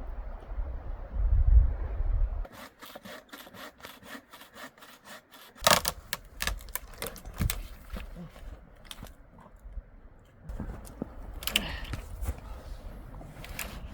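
Hand saw cutting firewood into small pieces, a quick run of strokes about four a second with a few harder ones. Wind rumbles on the microphone at the start and again near the end.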